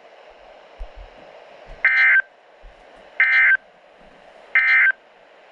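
Weather radio sounding three short, buzzy data-tone bursts about a second and a quarter apart over faint hiss: the SAME end-of-message code that closes a NOAA Weather Radio warning broadcast.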